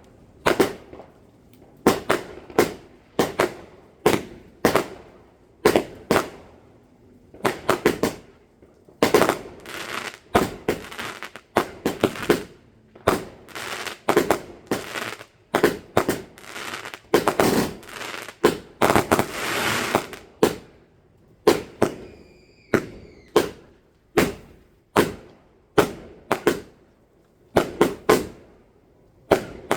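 Fireworks going off: a long run of sharp bangs, a few each second, thickening into dense crackling through the middle.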